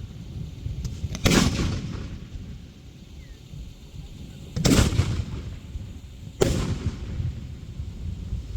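Fireworks shells bursting: three loud booms, each trailing off in a rumble. The first comes about a second in, the other two near the middle, a second and a half apart.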